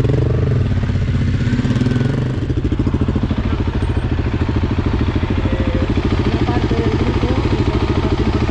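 Adventure motorcycle engine running at low, steady revs with an even, rapid pulsing. There is a slight rise and fall in engine pitch in the first couple of seconds.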